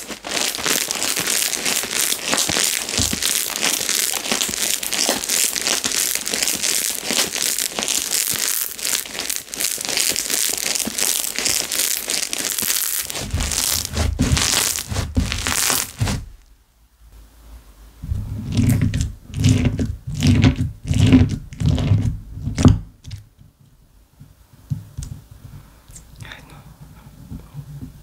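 Slime being worked by hand, with a dense crackling of popping air bubbles. About sixteen seconds in, this gives way to a string of separate presses, each with a low thud and a pop. Near the end only faint scattered clicks remain.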